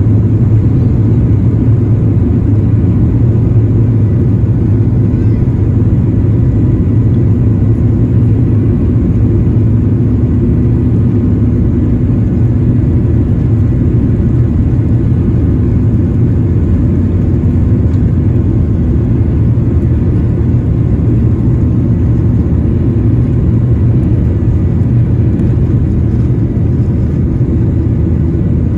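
Steady rumble of a Boeing 737-900ER's CFM56-7B jet engines and airflow, heard from inside the passenger cabin, with a faint steady whine above it.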